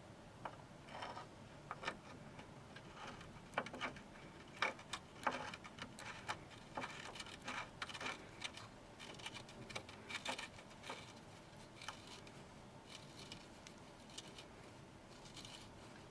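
Scattered, irregular clicks and light knocks of hand tools and bolts being handled during work on a car's subframe and control-arm mounting.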